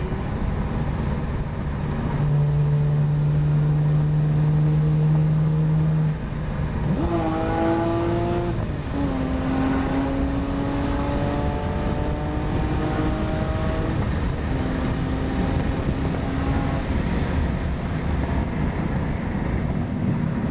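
Cabin sound of a VF Engineering-supercharged BMW E46 M3's straight-six under hard acceleration, heard over steady wind and road rush. The engine holds a steady drone, dips sharply about six seconds in, then climbs in pitch again in long pulls, broken by gear changes about nine and fourteen seconds in.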